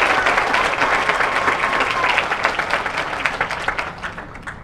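Stadium crowd applauding and clapping, with a few whistles, dying away over the last second.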